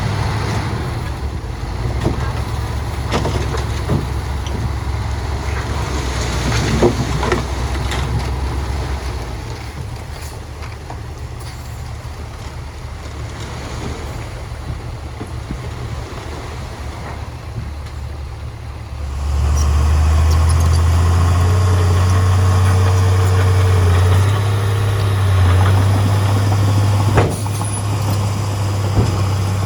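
Heavy diesel engines of dump trucks and a bulldozer working, with scattered knocks. About two-thirds of the way through, a nearby diesel engine comes in as a loud, steady low drone.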